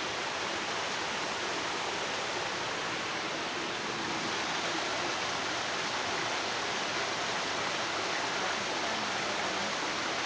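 Steady rush of water flowing over rocks in a creek in a narrow gorge, swollen by recent rain.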